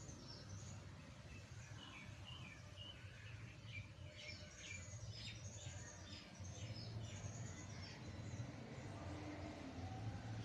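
Birds chirping in the background: runs of short, quick high calls, busiest from about four to seven seconds in, over a faint steady low hum.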